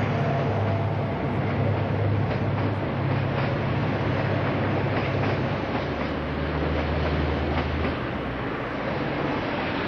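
Passenger train passing behind an SM31 diesel locomotive: a low engine rumble under a steady rolling noise of carriages, with wheels clicking over rail joints. The low rumble drops away about eight seconds in.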